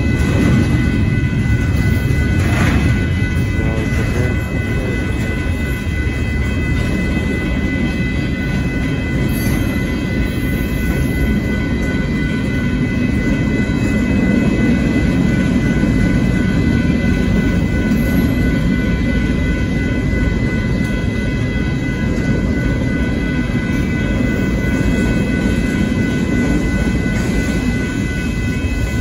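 Union Pacific intermodal freight train's cars rolling past a grade crossing: a steady low rumble of wheels on rail, with faint steady high-pitched tones above it.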